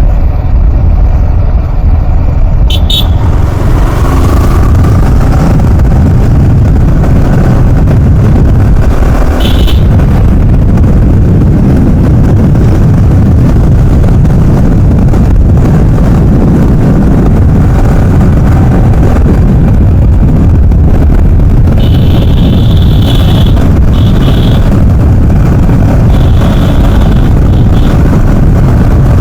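Wind buffeting the microphone over the running engine and road noise of a moving vehicle, loud and steady. A few brief high-pitched tones sound twice early on and several times in the last third.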